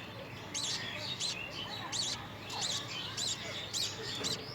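Budgerigars chirping: a quick, steady run of short, sharp chirps, about three a second.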